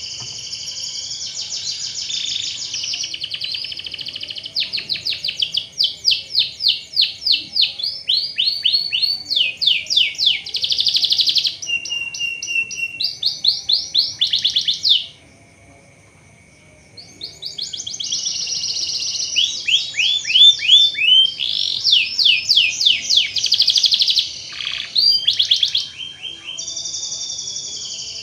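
Domestic canary singing a long rolling song: quick trills of repeated notes, each run at a different speed and pitch, with a break of about two seconds midway.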